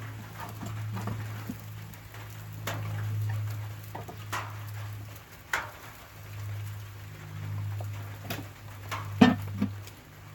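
Scattered ticks and pops of rain and a cooking campfire over a steady low hum that swells and fades, with one louder knock about nine seconds in.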